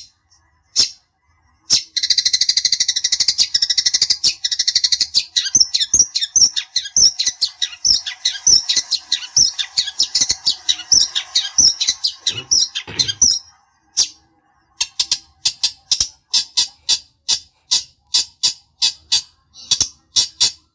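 Long-tailed shrike (cendet) calling: a dense, rapid run of harsh chattering notes from about two seconds in until about thirteen seconds, then a steady series of separate sharp calls, roughly two a second. This is agitated, rival-provoking calling.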